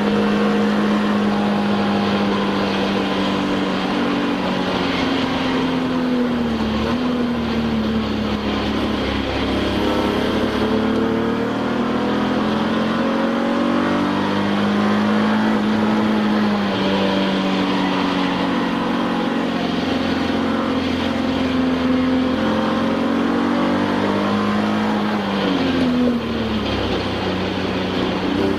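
Touring-car race engine heard from inside the cockpit at race pace, its pitch climbing as it pulls through the gears and dropping sharply a few times under braking and downshifts.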